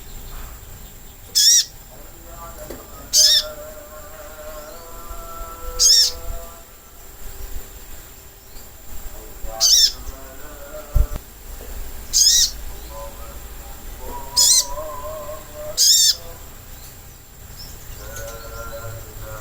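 Sogok ontong bird call used as a lure: seven short, sharp, high-pitched trilled calls repeated every two to four seconds, over softer, lower warbling.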